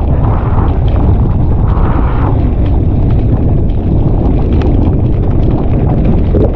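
Strong wind buffeting the microphone in a loud, steady low rumble, with quick clicks and rattles of a mountain bike running over a rough, wet trail.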